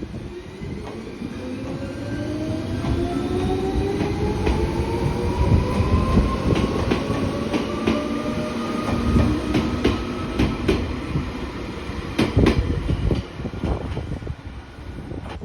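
Electric train pulling away, its traction motors whining in a tone that rises steadily as it gathers speed, over a low rumble of wheels on rail. Wheels clack over rail joints, most loudly near the end.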